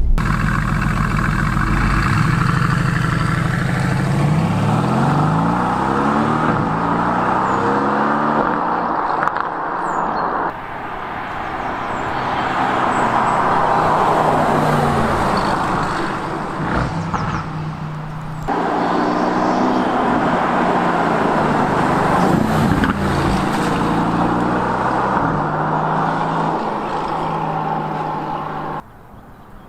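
Mercedes-AMG GT S twin-turbo V8 accelerating hard, its pitch climbing and dropping back at each gear change, over tyre and road noise. Several abrupt cuts between driving shots.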